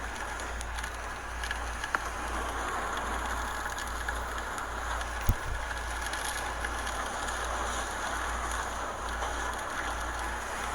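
Hurricane wind and driving rain making a steady rushing hiss over a constant low rumble. A sharp thump about five seconds in, and a smaller click about two seconds in.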